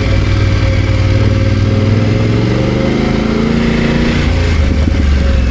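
BMW F900 GS parallel-twin motorcycle engine running at low revs, its pitch climbing a little in the middle and then dropping back.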